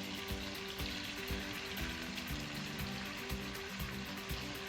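Marinated chicken wings sizzling in hot oil in a pot: a steady frying hiss. Quiet background music with held notes runs underneath.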